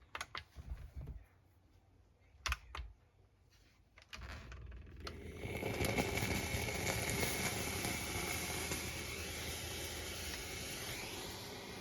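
A few light handling clicks and knocks, then about four seconds in a steamer starts hissing steam, a steady hiss that swells over the next second or so, with a faint high whistle-like tone in it.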